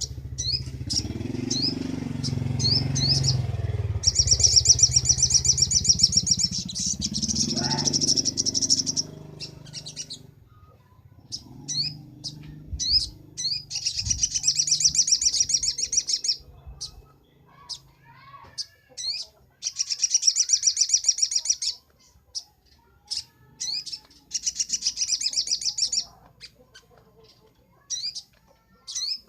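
Sogon (sogok ontong) singing: loud, rapid high trilled phrases of a couple of seconds each, repeated several times with short sharp chirps in between. A low rumble sits under the first third.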